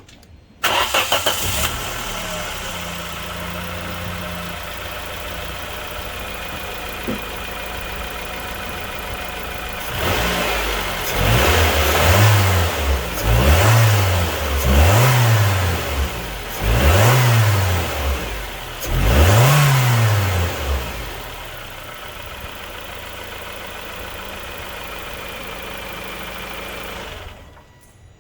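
Nissan QG18DE 1.8-litre four-cylinder engine starting up and idling, then revved five times in short blips that each rise and fall in pitch before it drops back to idle. It is running after its head gasket, burnt between cylinders 1 and 2, has been replaced.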